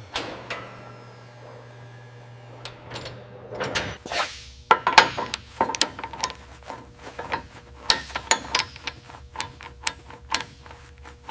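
Workshop work on metal: a low steady hum for the first few seconds, then a busy, irregular run of sharp clicks, taps and knocks of tools and parts handled on metal.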